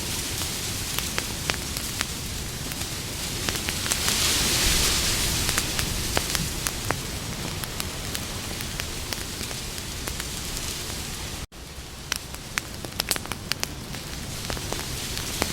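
Campfire burning, with a steady hiss and many sharp crackles and pops from the burning wood; the hiss swells for a couple of seconds about four seconds in. The sound cuts out for an instant about eleven and a half seconds in, then carries on.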